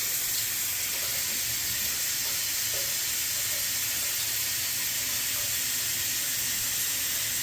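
Water running steadily from a shower valve that has just had a new cartridge fitted, turned to hot to check the water comes out warm.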